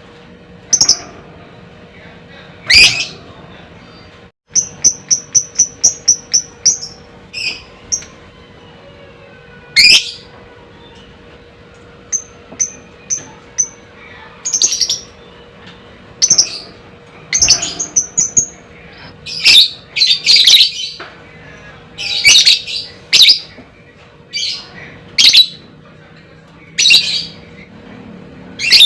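Lovebird calling in a series of sharp, shrill, high-pitched screeches, with a rapid run of about a dozen short chirps about five seconds in and a shorter run a few seconds later.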